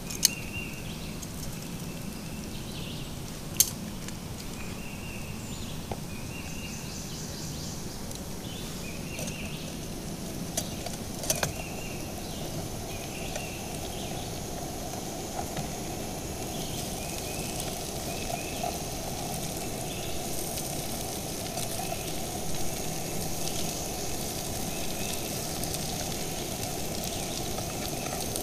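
Shredded hash browns sizzling in a frying pan over a running MSR WhisperLite camp stove. The sizzle grows louder in the second half, with a few sharp clicks of the spatula against the pan.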